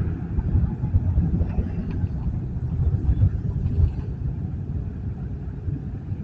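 Low, steady rumble of a motor vehicle's engine, slowly fading as it moves away.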